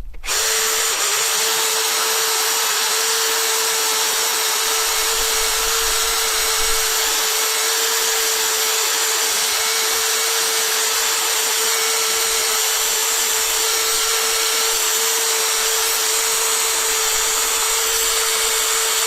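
Electric drill starting up a moment in and then running steadily at one even speed. It is spinning an 800-grit sanding pad against a motorcycle windscreen during wet sanding.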